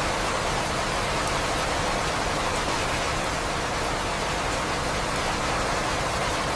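Recorded rain falling steadily, an even, unbroken wash of noise.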